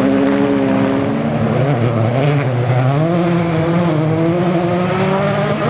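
Rally car engine running hard on a gravel special stage, its pitch dipping briefly about a second and a half in and then climbing again as the car accelerates.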